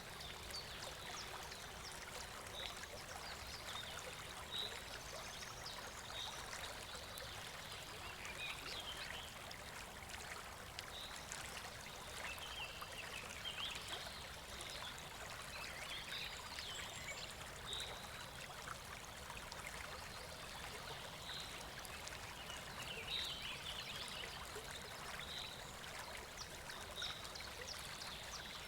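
Babbling brook: water flowing and trickling steadily over stones. Short high-pitched chirps repeat every second or two over it.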